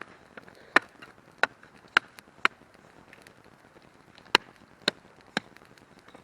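Firewood being chopped, seven sharp strikes in two runs: four about half a second apart, a pause, then three more.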